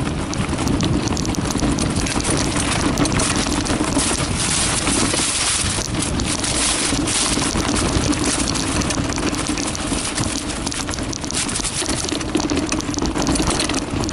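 Wind buffeting the microphone on a downhill run of a Carraro Big 827 mountain bike, with the tyres rolling over a dirt forest trail. Through it come many short rattles and knocks from the bike as it hits bumps.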